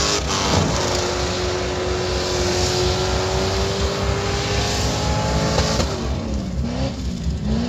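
Car engine running hard at high revs under a loud rushing noise, the engine note held steady for several seconds; around six seconds in the rush eases and a few short rising revs follow.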